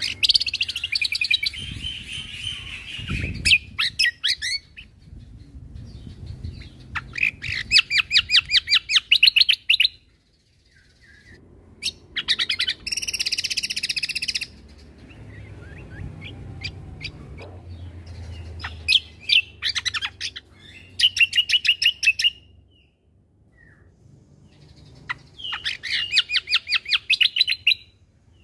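Cucak kombo (kecial kombo) songbird singing in bursts of fast, rapid-fire chattering notes, about six phrases a few seconds long with short pauses between, the 'tembakan' shooting trills that song-bird keepers prize.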